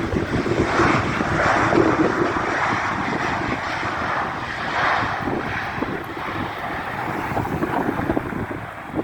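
Jet noise from a Boeing 737-800's CFM56 turbofan engines, swelling over the first couple of seconds and then slowly fading as the aircraft passes. Gusty wind buffets the microphone throughout.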